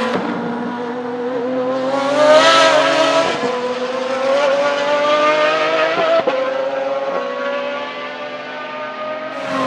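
Pagani Zonda Revolución's 6.0-litre Mercedes-AMG V12 accelerating away, its note climbing steadily in pitch. It is loudest about two and a half seconds in and grows fainter in the last few seconds as the car pulls into the distance.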